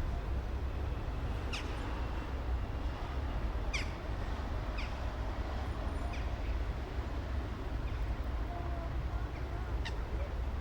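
Steady low city traffic rumble, with a bird's short, high, falling chirps breaking in a handful of times.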